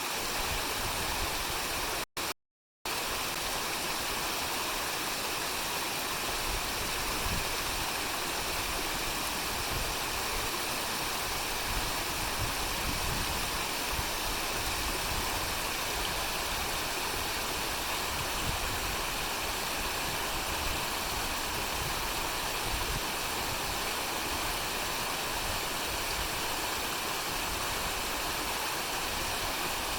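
Kuzuryu Falls waterfall, water rushing and splashing steadily; the sound cuts out completely for a moment about two seconds in.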